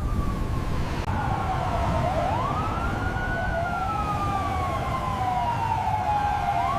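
Emergency vehicle siren wailing, its pitch sweeping up sharply about two seconds in and again near the end, falling slowly in between, over a steady low rumble.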